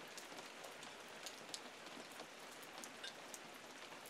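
Faint steady rain falling, with scattered single drops clicking.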